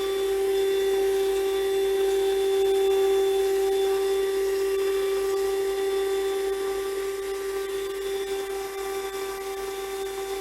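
Handheld 120 W 12 V car vacuum cleaner running with its flat crevice nozzle fitted: a steady, high motor whine that eases off slightly toward the end.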